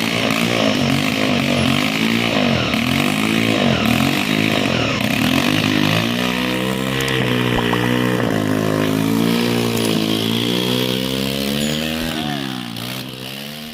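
Motorcycle engine running in a homemade car, its pitch rising and falling as the throttle changes, with a quick drop and rise near the end before the sound fades.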